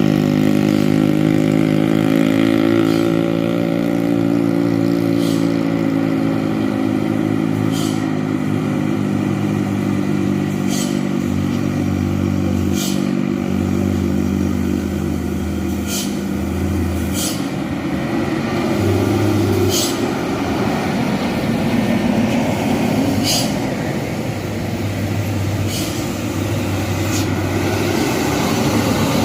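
Loaded dump truck's diesel engine running steadily, its note fading away over the first ten seconds, followed by a rising rush of road and passing-traffic noise. Short sharp high clicks come every few seconds throughout.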